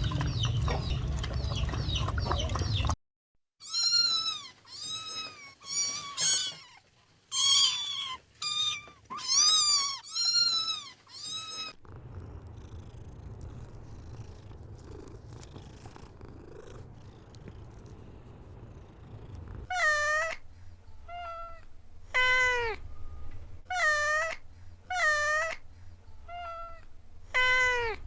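Kittens mewing: a run of short, high-pitched meows, each rising and falling in pitch, then a quieter spell, then another run of meows near the end. A low rumbling noise fills the first few seconds before the meowing starts.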